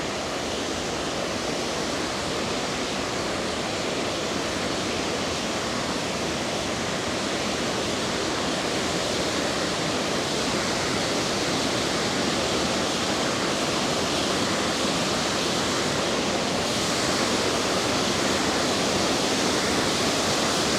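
River water rushing steadily over rocks, a dense even hiss that grows a little louder toward the end.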